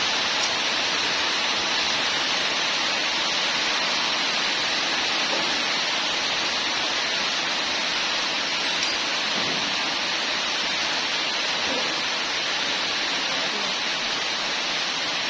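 A steady, even rushing hiss with no pitch or rhythm, holding the same level throughout.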